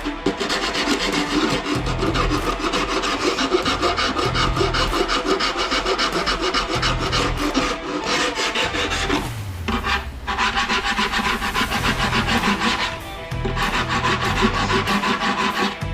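A hand file rasping back and forth over a foam deer mannequin form in quick, continuous strokes, knocking down the mould seam and sharp edges. The filing breaks off briefly twice, a little after 9 seconds and again around 13 seconds.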